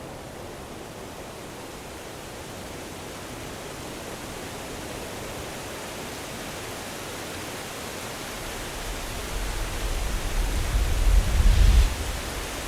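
Steady rushing outdoor noise, with a low, irregular rumble that builds from about nine seconds in and cuts off suddenly near the end.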